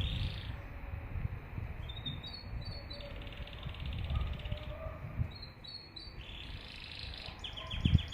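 Domestic canary singing: short high trills and rolled, rattling phrases with brief pauses between them, over a low rustling from the freshly bathed bird moving about. A single low thump near the end is the loudest sound.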